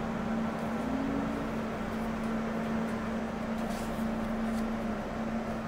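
Steady running noise of an electric train heard from inside the passenger car, with a constant low hum.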